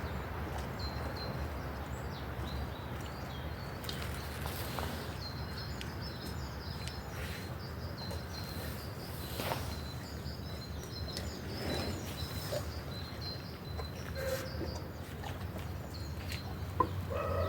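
Small birds chirping and twittering in short high notes over a steady low background rumble, with a few faint knocks.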